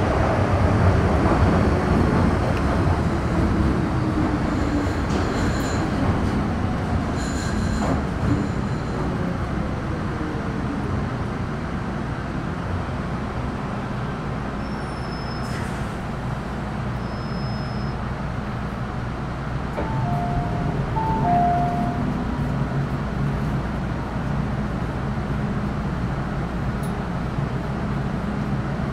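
Metro Cammell M-Train electric multiple unit with GEC GTO chopper traction, heard from inside the car as it runs and slows on the line. A whine falls in pitch through the first ten seconds as the train brakes, then settles into a lower steady rumble. A few short beeps sound a little after twenty seconds.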